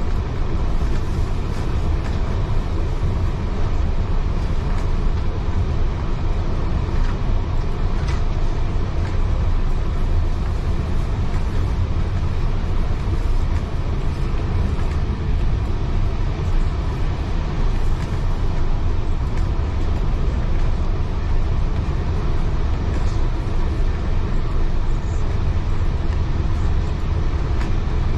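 Heritage railway carriage running along the track, heard from on board: a steady deep rumble of wheels and bogies on the rails, with a few faint clicks.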